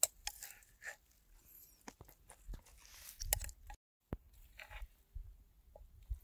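A person biting and chewing crunchy food close to the microphone: irregular crisp crunches and small clicks, with a brief gap of total silence about four seconds in.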